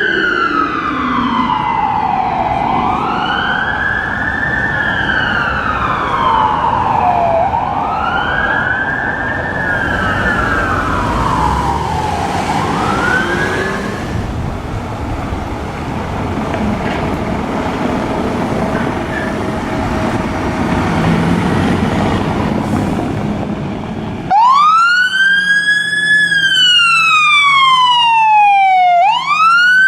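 Fire engine's wail siren rising and falling about every four to five seconds, fading out about halfway through under road and engine noise. Near the end a louder, clearer wail siren starts abruptly.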